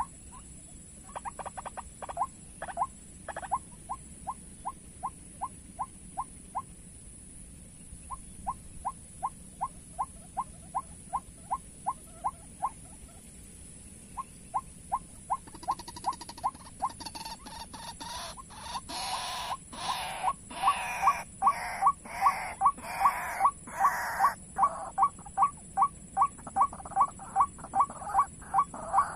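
White-breasted waterhen calls: a rapid, repeated single note, about three or four a second, in runs broken by short pauses. From about halfway the calls grow louder and harsher.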